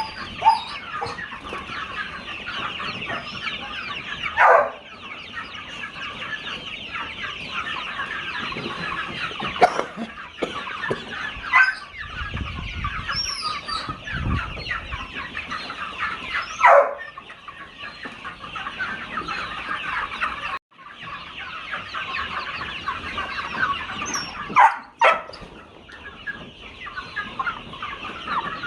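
A flock of chickens clucking continuously as a dense chatter, with three louder single calls standing out. The sound drops out briefly about two-thirds of the way through.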